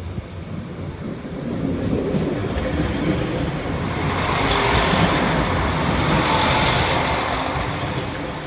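Northern diesel multiple unit passing close by, engine rumble and wheels on the rails building up to a peak about five seconds in, then easing off.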